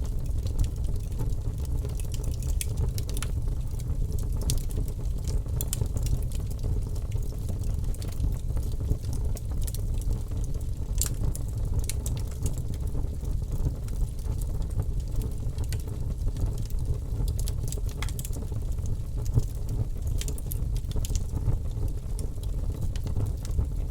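Wood fire burning in an open fireplace: a steady low rumble of flame with irregular sharp crackles and pops scattered throughout.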